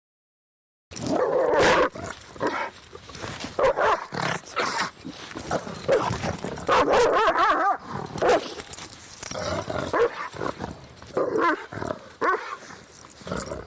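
Dogs barking in a dense, overlapping run that starts about a second in.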